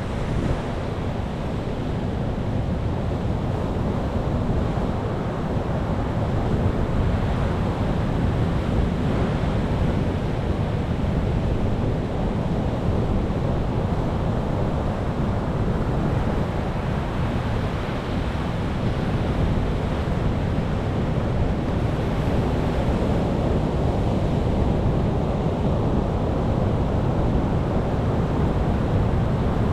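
Ocean waves breaking and washing on the shore in a continuous surge, with slow swells in loudness and some wind rumble on the microphone.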